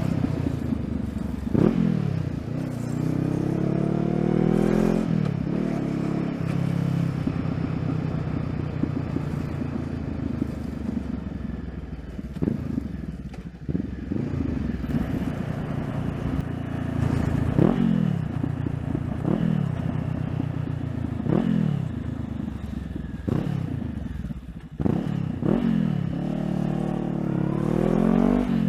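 Honda CBR500R's parallel-twin engine under way, its pitch climbing as it accelerates and dropping sharply at each gear change, about eight times, over steady wind and road noise.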